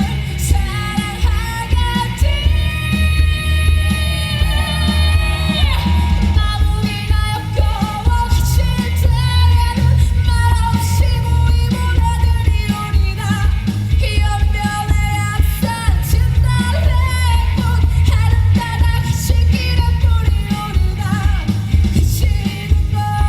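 Live pop-rock band music with singing over a steady heavy bass beat. A long held, wavering high note slides down and ends about six seconds in.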